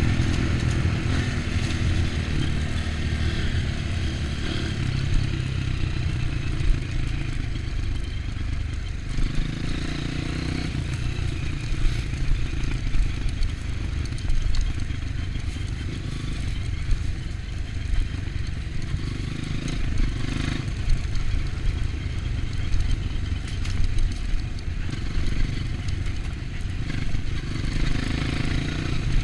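Off-road trail motorcycle engine running steadily, a low rumble with short knocks and clatter now and then.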